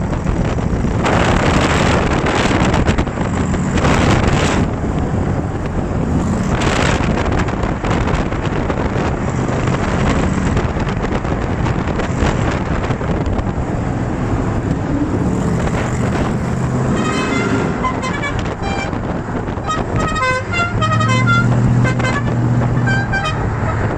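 Cars accelerating hard through a road tunnel, loud engine and road noise. In the last several seconds a rapid flurry of short horn toots sounds over a swelling engine drone.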